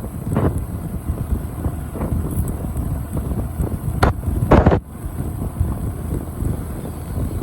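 Wind rushing over the microphone with a motorcycle running underneath, a steady low rumble, with two loud bursts about four seconds in.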